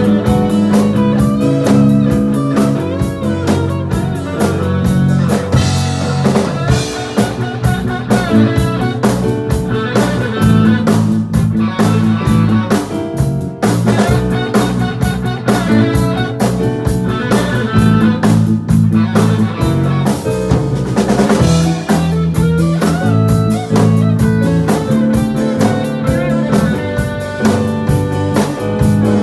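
Live band playing loudly through a PA, with drum kit and guitar.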